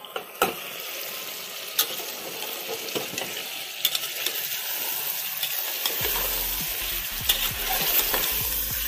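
Chicken sizzling in an aluminium pressure cooker as it is stirred with a metal spatula, a steady frying hiss with a few sharp scrapes and clinks of the spatula against the pot.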